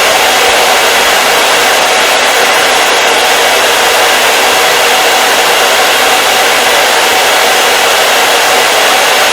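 Hair dryer running steadily, a loud even rushing noise with a faint motor hum.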